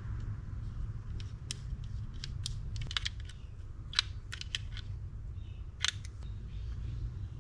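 Light, irregular clicks and taps of small metal reel parts being handled and cleaned, the sharpest about four and six seconds in, over a steady low hum.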